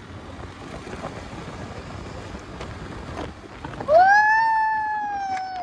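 Wind and road rush on the microphone from riding a motorbike. About four seconds in, a loud vehicle horn sounds in one long note that jumps up at the start and then slowly falls in pitch.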